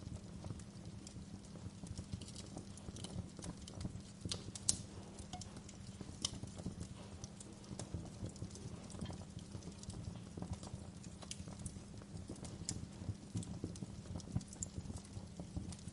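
Wood fire crackling in a fireplace: a steady low rumble of burning under many small irregular crackles, with a few louder pops.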